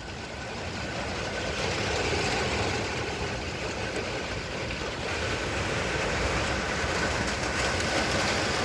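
Thunderstorm wind and rain making a steady rushing noise that builds a little over the first couple of seconds, with a faint steady high tone running underneath.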